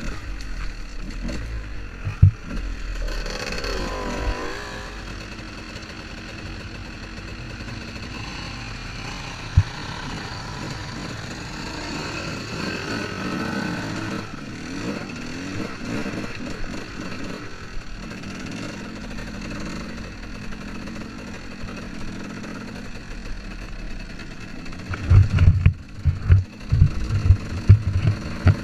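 Two-stroke 125 motocross bike engine running and changing pitch as it is ridden and revved. A run of heavy low thumps comes near the end.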